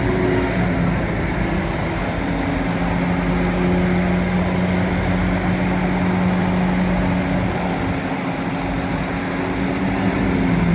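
Bulldozer's diesel engine running with a steady drone, its pitch holding level.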